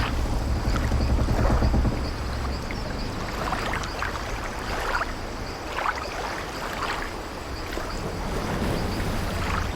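Sea-voyage ambience inside an old wooden ship: waves washing against the hull over a low rumble, with short creaks and splashes scattered through. The rumble is strongest at the start and swells again near the end.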